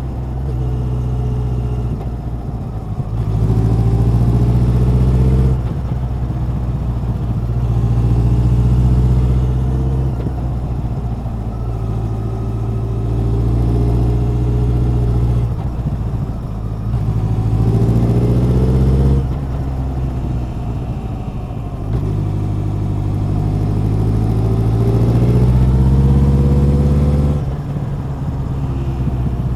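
Honda CB1100's air-cooled inline-four engine and exhaust under way, revving up and easing off again and again, its pitch rising through each pull and dropping back between them.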